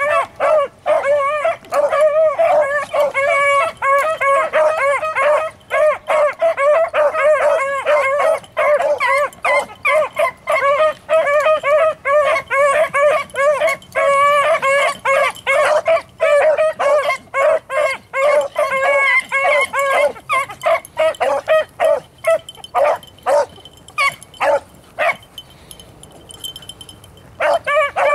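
Beagles baying while running a rabbit's track, a near-continuous chorus of overlapping hound calls. For a few seconds near the end the baying thins to scattered calls, then picks up again.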